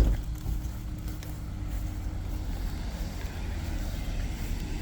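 A motor vehicle's engine running with a steady low rumble, opened by a sharp thump right at the start.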